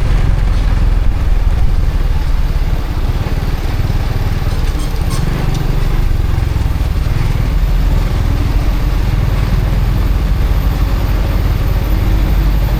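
Honda Supra X 125 FI's single-cylinder four-stroke engine running steadily while the motorcycle is ridden, under a heavy, steady rumble of wind on the microphone.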